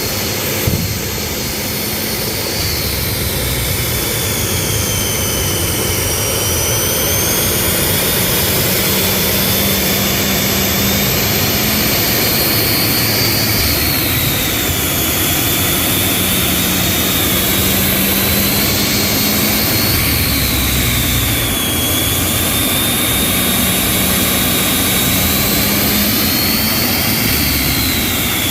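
Jet dragster's turbine engine running with a steady roar and a high whine that surges up and down several times, a few seconds apart. The engine kept dying and being brought back up, which the crew put down to a gate not opening fully and starving it of air.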